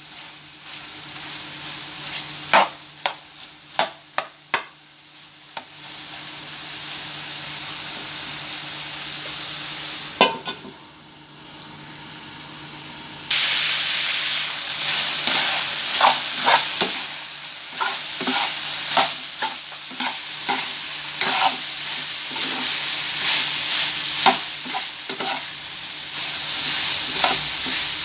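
Strips of pork and liver sizzling in a nonstick frying pan while a metal spatula stirs them, with many sharp clicks and scrapes of the spatula against the pan. The sizzle jumps suddenly louder about halfway through.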